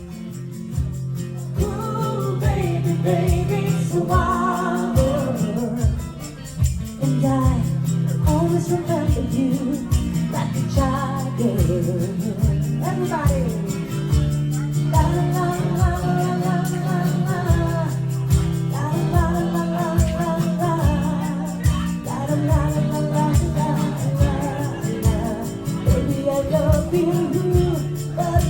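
Live acoustic duo music: a voice singing over guitar with a steady beat and a strong bass line.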